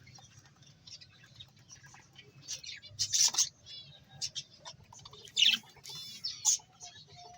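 Small birds chirping in short, sharp, high calls, loudest about three seconds in and again between five and six and a half seconds, over a faint steady low hum.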